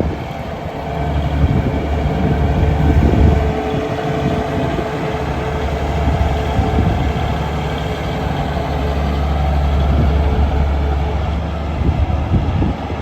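Case IH 9170 four-wheel-drive tractor's diesel engine running with a deep, steady drone that swells and eases twice as the load changes.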